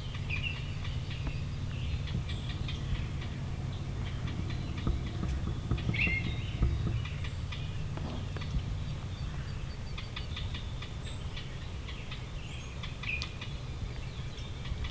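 Wild turkey gobbling three times, several seconds apart, with faint songbird chirps and a steady low rumble underneath.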